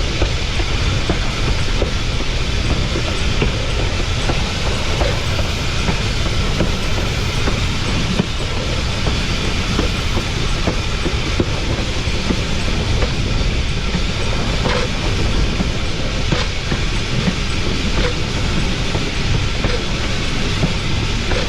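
Narrow-gauge steam locomotive's leading wheels rolling on the rails, heard close up: a steady rumble and rattle with a few faint clicks over the rail joints.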